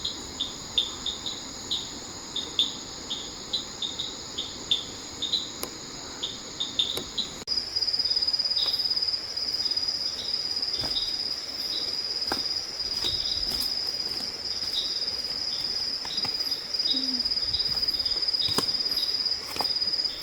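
Chorus of night insects: crickets trilling steadily at a high pitch, with a repeated chirp about three times a second. About seven seconds in the sound changes abruptly to a different, louder steady trill, with fainter chirps and a few clicks.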